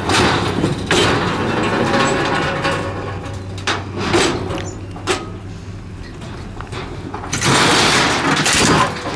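A car being unloaded from a trailer: a truck engine runs steadily underneath, with a few sharp knocks and clanks and long rushes of noise at the start and near the end.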